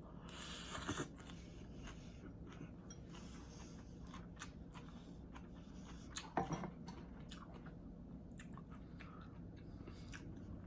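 Close-miked chewing of pancit bihon rice-vermicelli noodles, with many small wet mouth clicks, a brief noisy burst near the start and a louder mouth sound about six seconds in.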